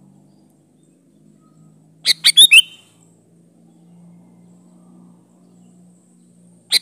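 Sooty-headed bulbul (kutilang) calling: a quick burst of about four sharp, chirpy notes about two seconds in, and another burst starting near the end, with a faint low hum between.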